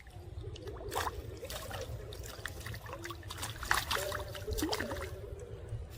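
Water trickling and dribbling, with many small, sharp splashes scattered through it.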